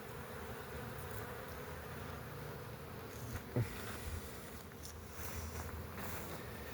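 Honeybees flying in numbers around the hives, a steady buzzing hum, stirred up by a robbing frenzy.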